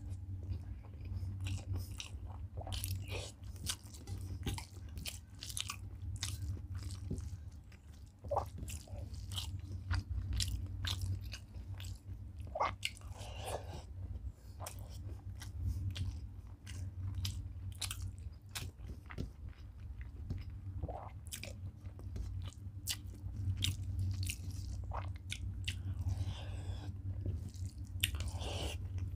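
A person chewing mouthfuls of rice and curry eaten by hand, close to the microphone, with many short wet mouth clicks over a steady low hum.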